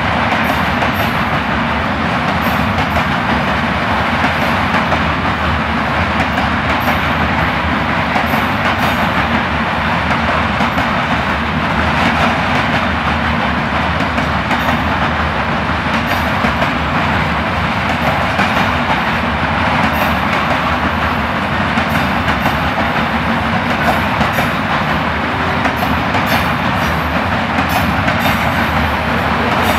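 Freight train of Rils bogie sliding-tarpaulin wagons rolling past at steady speed: a continuous rumble of steel wheels on rail with scattered clicks as the wheels cross rail joints.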